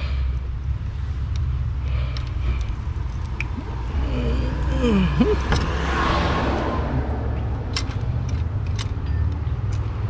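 A steady low rumble like a running vehicle, with a brief swell of noise in the middle and a few sharp clicks near the end.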